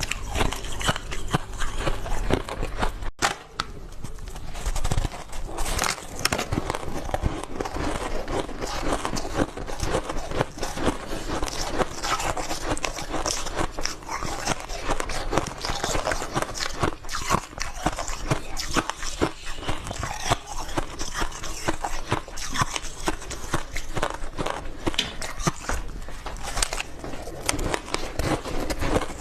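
Close-up biting and chewing of refrozen powdery ice: soft crunches in quick, irregular succession, with a brief lull about three seconds in.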